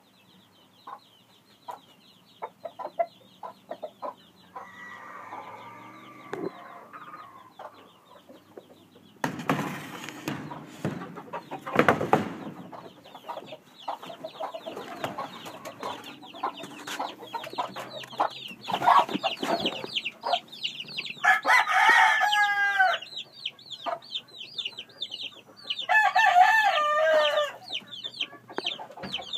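Gamecocks (fighting roosters) clucking, with two loud crows in the second half, each lasting about a second and a half.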